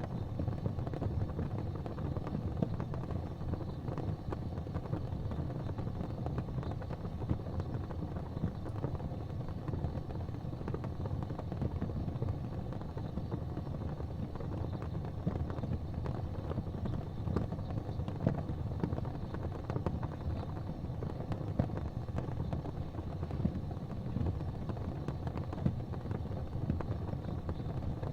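Gas fireplace flames burning with a steady low rumble and faint scattered ticks.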